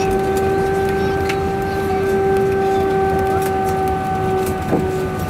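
Steady cabin noise inside a British Airways Airbus A321 on the ground just after landing: the engines and air-conditioning make a constant hum made of several steady tones over a rushing noise.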